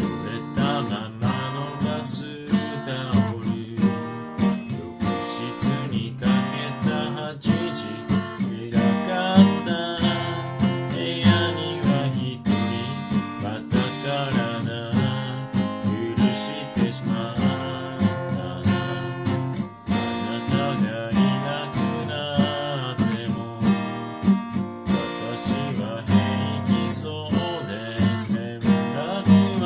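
Acoustic guitar strummed in a steady rhythm, playing the chord accompaniment of a pop song.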